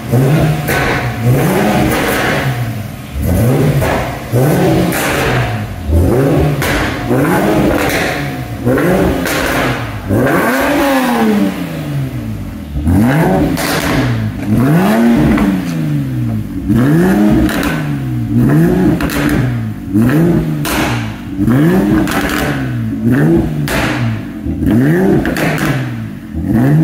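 Infiniti G37 coupe's built 3.7-litre VQ V6 free-revved in repeated throttle blips, the pitch sweeping up and falling back each time, with sharp cracks between the blips. The blips come faster and smaller at first, then there is one big rev about a third of the way in, followed by steady larger blips every second and a half or so.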